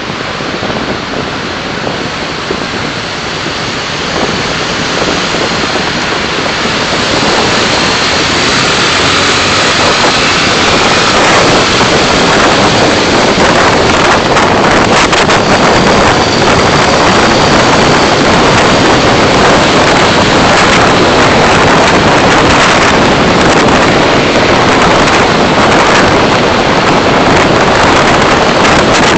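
Steady rushing wind and road noise picked up by a car's dashcam while driving. It grows louder over the first eight seconds or so, then holds steady and loud.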